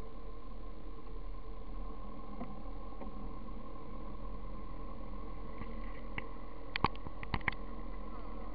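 Motorcycle engines idling steadily. A few sharp clicks near the end as the camera is handled.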